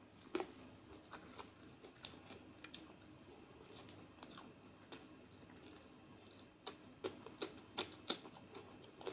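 Close-miked chewing and wet mouth clicks of a person eating rice and curry by hand, with scattered sharp clicks that grow louder and closer together near the end.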